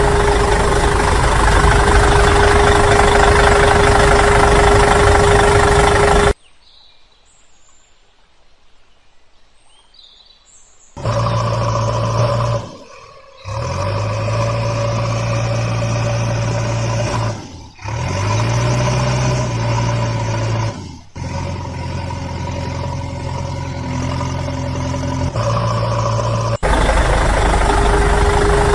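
Vehicle engine running in several edited stretches, with an abrupt quiet gap of about five seconds after the first quarter. A few faint high chirps fall in the gap. After it comes a steady low engine hum broken by short dropouts.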